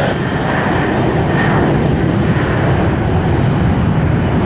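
Jet airliner engines running loud and steady, a dense rumble weighted toward the low end.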